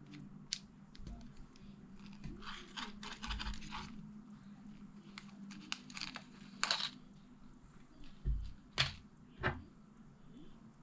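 Close-up handling noises: a stretch of tearing or crinkling about two seconds in and again near seven seconds, scattered sharp clicks, and three dull thumps near the end, over a low steady hum.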